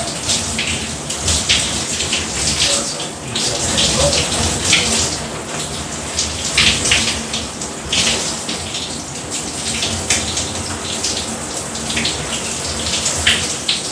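Shower water from a chrome Hibbent rain shower set pouring steadily, with uneven splashes.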